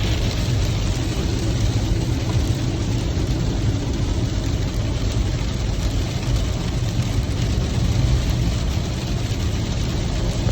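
Steady drone of a car driving in heavy rain: low engine and road hum under an even hiss of rain and wet road.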